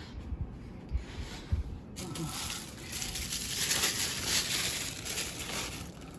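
Packing material being handled while a statue is unboxed: a few soft knocks, then from about two seconds in a dense rustling, crinkling noise that lasts several seconds.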